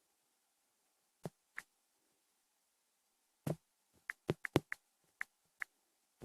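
A few short, sharp clicks in near silence: two about a second in, then a quicker run of seven or eight from about three and a half seconds in.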